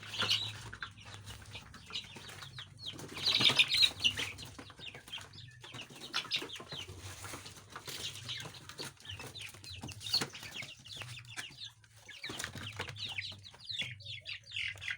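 Many chickens clucking and chirping, with a louder flurry of flapping wings and calls about three seconds in.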